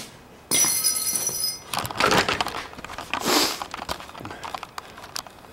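A steel tape measure's blade being pulled out and run along, with a metallic whirring ring and then scraping and rattling clicks as the blade is played out and its hook catches on a C-clamp.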